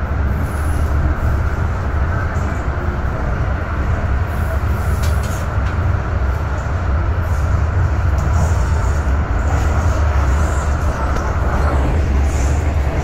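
Hong Kong MTR M-train electric multiple unit running into a station, heard from inside the car: a loud, steady low rumble of wheels and traction. The higher part of the noise falls away near the end.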